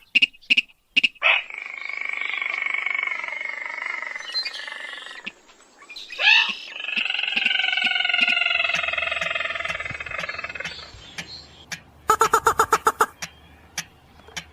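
Recorded calls of paddy-field rails and crakes (sintar, mandar padi) from a bird-lure track. Two long, drawn-out calls each sink slowly in pitch, with a sharp swooping note between them. Near the end comes a fast clicking series of about a dozen pulses.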